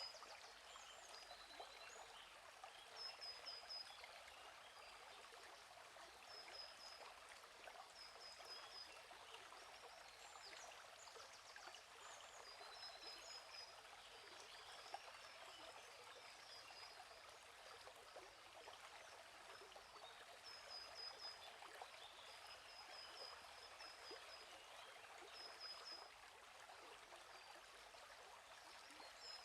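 Quiet, steady babble of a small stream or brook. High bird chirps come in short quick runs of a few notes every few seconds.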